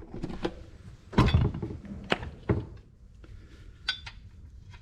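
Tools and metal parts being handled on a workbench: a heavy thunk about a second in, then a few lighter knocks and clinks.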